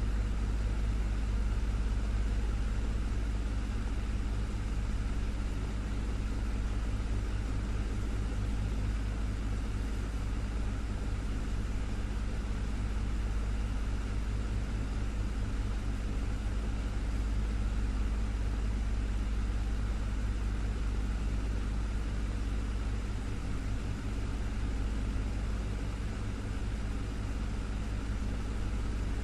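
Desktop electric fan running steadily: a constant low hum under an even rush of moving air, with no change in speed.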